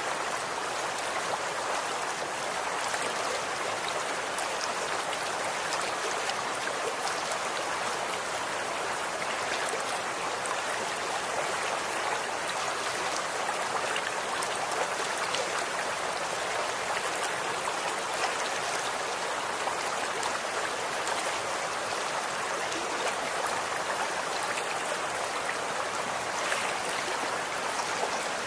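Running water flowing steadily: an even rushing and splashing, like a stream over stones.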